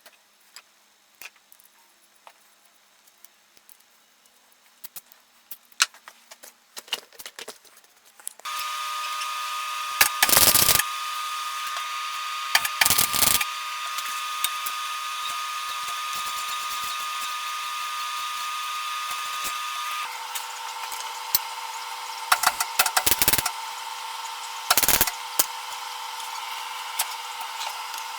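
Electric workshop power tool: after a few light handling clicks, its motor starts about eight seconds in and runs with a steady whine, the pitch dropping slightly around twenty seconds in. Several short, loud bursts of cutting noise break in as the tool bites into the workpiece.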